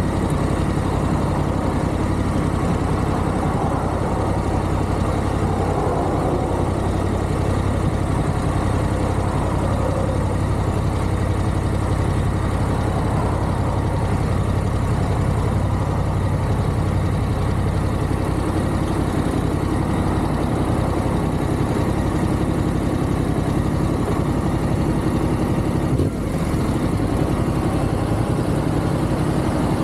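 Motorcycle engine running steadily under way, with an even rushing noise over it and one brief dip near the end.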